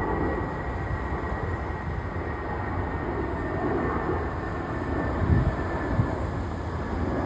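Jet airliner engines rumbling steadily, with a thin high whine that fades away near the end. Two brief thumps come about five and six seconds in.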